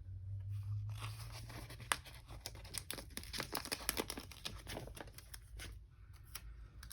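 Paper sticker sheets being handled, with a run of small crinkles and tearing sounds as stickers are peeled from their backing.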